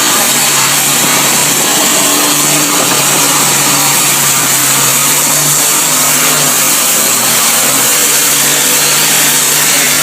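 Chewing gum removal machine running: a loud, steady hiss over an engine drone.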